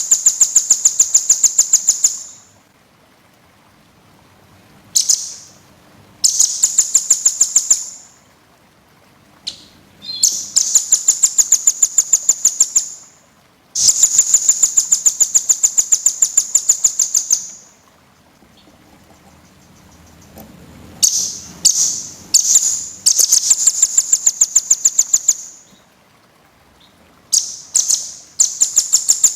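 A small songbird's fast, tightly packed trill: rapid high ticking notes in bursts of one to four seconds, repeated after short pauses, about seven bursts in all. This is a dense small-bird tutor song of the kind played to teach songbirds such as magpie-robins and shamas.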